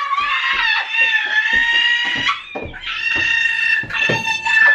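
A person screaming: two long, high-pitched, held screams, the first starting with a rising pitch and lasting about two seconds, the second starting just after and still going at the end.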